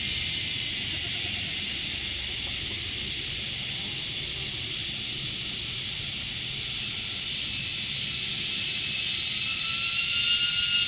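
A steady, even hiss, with a faint whistle-like tone coming in near the end.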